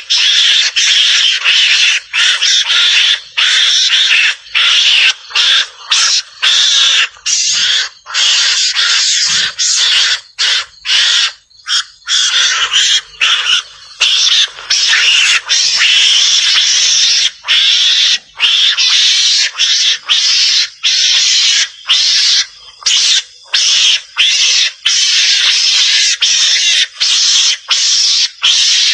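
Javan mongoose (garangan) calls played as a hunting lure: a raspy, noisy chatter in runs broken by short pauses every second or so.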